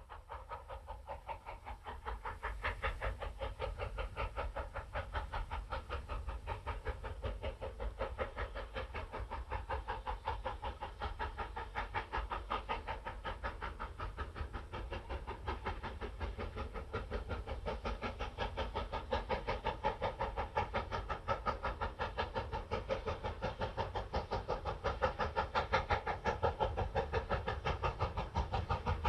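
Recorded train running sound laid over the footage: a fast, steady rhythmic clatter. It fades in over the first two seconds and grows a little louder in the second half.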